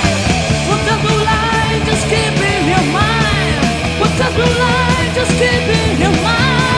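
Heavy metal band recording from a 1988 demo: distorted guitars, bass and drums playing, with a high lead melody that bends and wavers in pitch over steady bass notes.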